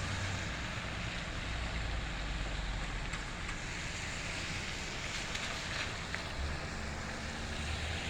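Steady outdoor hiss and low rumble of passing traffic, with a low engine drone coming in about six seconds in.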